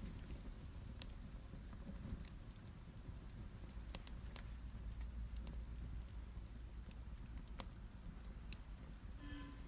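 Wood fire crackling in a fireplace: scattered sharp pops and snaps over a low, steady rumble of burning flames.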